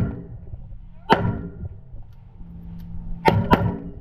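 Gunshots on a firing range: one at the start, one about a second in, and a quick pair near the end, each with a short echoing tail.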